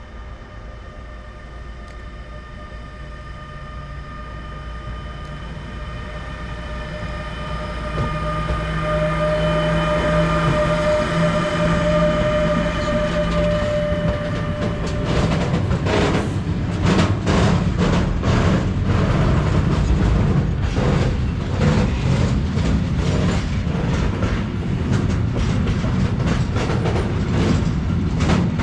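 Freight train going by. The locomotive's steady hum and whine grows louder for about fifteen seconds as it approaches. Then the wagons roll past with a rapid, rhythmic clickety-clack of wheels over rail joints over a loud rumble.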